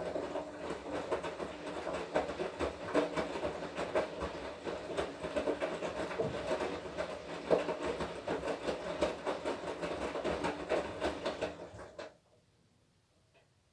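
Washing machine drum turning during the wash cycle: motor hum with a dense, irregular clatter of the tumbling wash load. It stops abruptly about twelve seconds in, the pause between drum turns.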